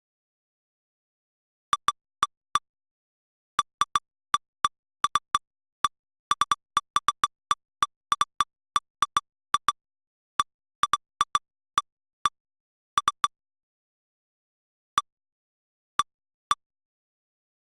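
Short electronic beeps from lightning-detector software, each marking a detected lightning strike as the station's 24-hour strike history replays. They come irregularly, in quick clusters, with dead silence between. They are densest in the middle and thin out to a few single beeps near the end.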